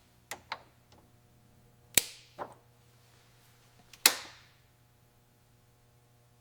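A series of about six sharp knocks and clinks, each ringing briefly, with two louder ones about two and four seconds in, typical of hard objects striking each other.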